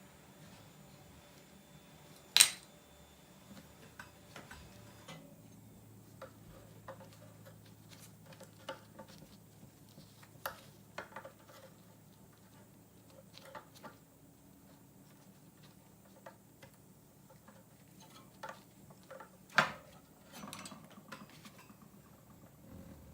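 Scattered clicks and light clinks of small hard parts and tools being handled while working on an electric drill, with two sharper knocks, one about two seconds in and one near the end.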